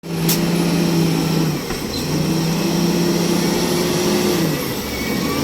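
Truck engine running steadily, its pitch stepping up and down a few times as the revs change.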